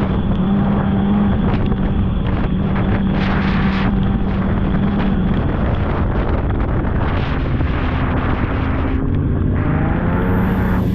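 Polaris snowmobile engine running steadily at trail speed, with wind buffeting the microphone. Near the end the engine pitch dips and then climbs again.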